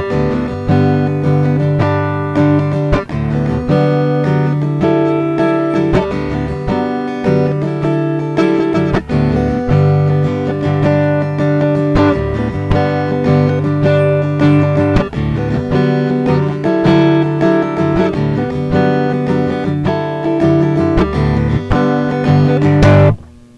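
Acoustic guitar strummed in a steady rhythm, an instrumental passage without singing. The strumming cuts off suddenly near the end, leaving a faint hum and hiss.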